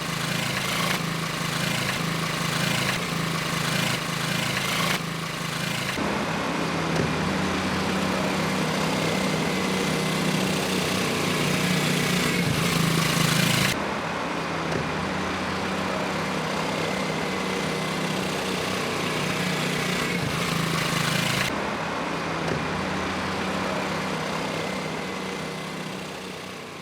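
Small 110cc four-stroke engine of a kids' quad bike running at a steady speed. The sound shifts abruptly a few times and fades out near the end.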